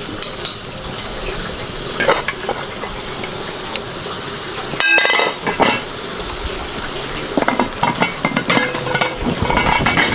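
Food sizzling as it fries in a pan, stirred with a utensil that scrapes and clinks against the pan. A sharper metal clink rings briefly about five seconds in, and the clinking grows busier near the end.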